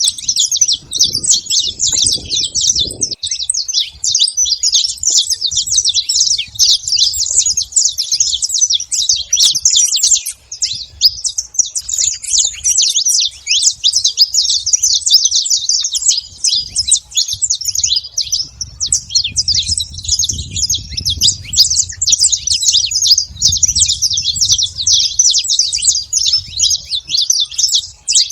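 Saffron finch singing: a fast, almost unbroken stream of high chirping notes, with a faint low rumble underneath at times.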